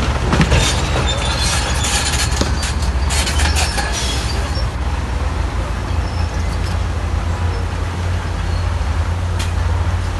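Heavy diesel engine of a crawler bulldozer running steadily with a deep drone, with a spell of metallic clanking and rattling over the first four seconds or so and one more knock near the end.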